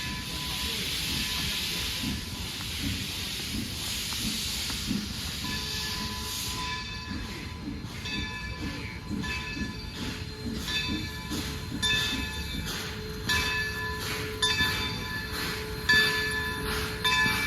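Train with a steam locomotive going by: a steady steam hiss for the first several seconds. Then repeated clicks and knocks from the wheels, with short bursts of high-pitched squeal.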